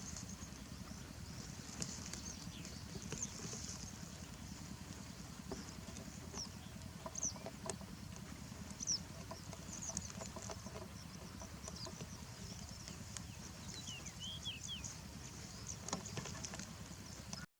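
Small birds chirping: short, high-pitched chirps scattered throughout, with a quick cluster of slightly lower chirps about fourteen seconds in, over a steady low rumble.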